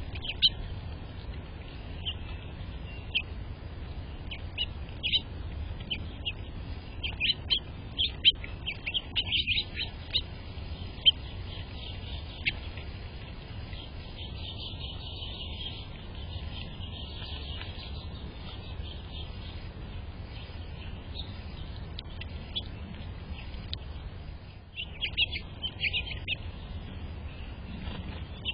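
Small birds chirping in short, sharp calls, coming in busy clusters early on and again near the end with a quieter stretch between, over a steady low background rumble.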